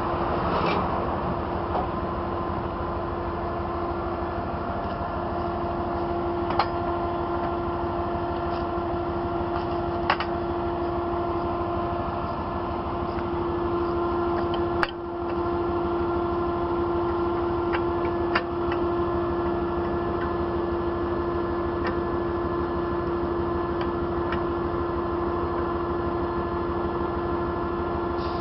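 Tow truck's engine running with a steady hum and one held tone, and a few sharp clicks.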